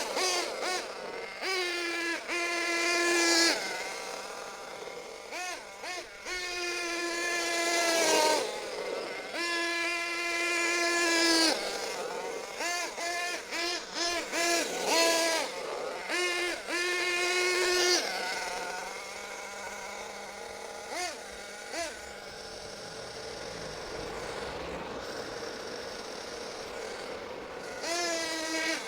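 Small .28 nitro engine of an RC monster truck revving in repeated bursts, its high-pitched note climbing and falling as the throttle opens and closes, then dropping to a quieter, steadier note for several seconds before revving again near the end. The engine is running on rich settings.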